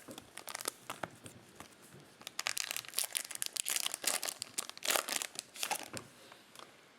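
Crinkling and tearing of a trading-card pack wrapper as a pack of Topps Chrome baseball cards is torn open and its cards pulled out: a run of irregular sharp crackles, busiest in the middle few seconds.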